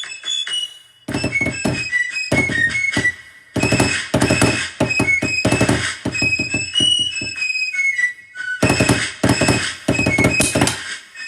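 Snare drum played in fast rudimental strokes and rolls along with a shrill fife melody, the drumming breaking off briefly between phrases.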